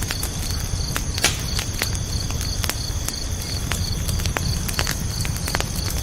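Campfire crackling with scattered sharp pops, the loudest about a second in, over a low steady rumble. Crickets chirp in a steady, even rhythm of about three chirps a second.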